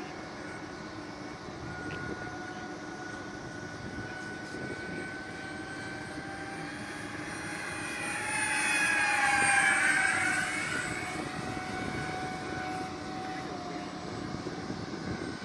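Whine of a radio-controlled model airliner's twin electric ducted fans in flight. It grows louder as the plane passes close, loudest about nine to ten seconds in, then drops in pitch and fades as it moves away.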